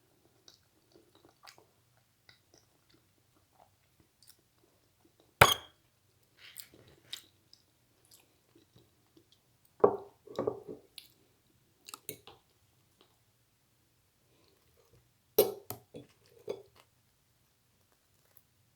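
Close-up eating sounds of a person chewing cheesy lasagna: wet chewing and mouth noises in short clusters with pauses between. A single sharp click about five seconds in is the loudest sound.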